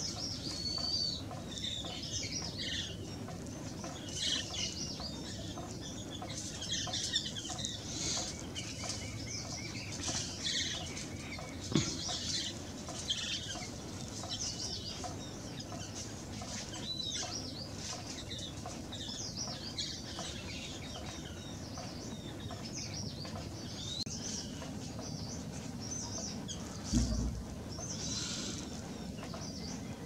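Birds chirping and giving short whistled calls, many overlapping and near-continuous, over a low steady rumble, with a brief thump about twelve seconds in and a louder one near the end.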